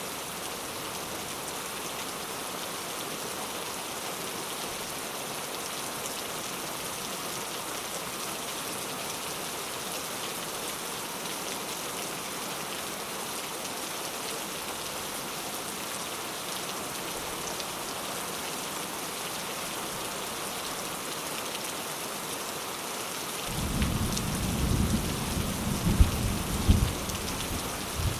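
Steady rain falling on a coconut-leaf thatched roof, an even hiss. About three-quarters of the way through, a low rumble of thunder rises, with a few sharp cracks, and lasts to the end.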